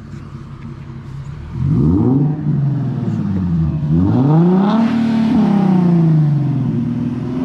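Nissan 370Z's 3.7-litre VQ V6 through a loud aftermarket exhaust, idling and then revved: a short blip about two seconds in, then a longer rev that climbs, holds briefly and falls back to idle, with another rev starting near the end.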